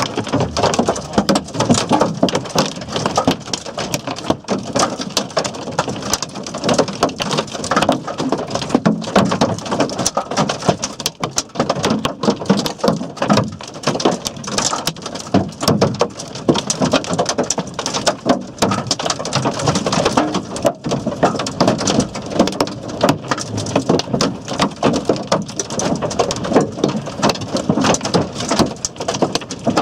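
Large hailstones, up to tennis-ball size, with heavy rain hammering down in a dense, irregular stream of sharp hits.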